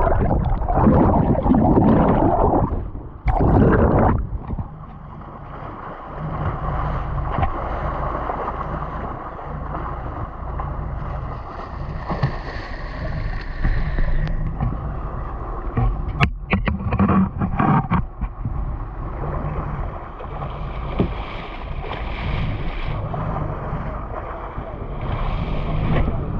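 Boat engine running steadily with wind on the microphone, loud rushing noise in the first few seconds, and a few sharp knocks just past the middle.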